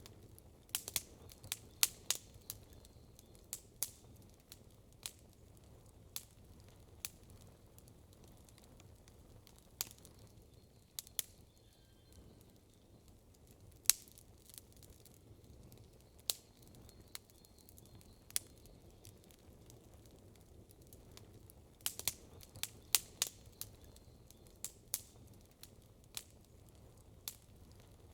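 Wood campfire crackling: sharp, irregular pops and snaps, bunched into flurries near the start and again about three-quarters of the way through, over a faint low steady rumble.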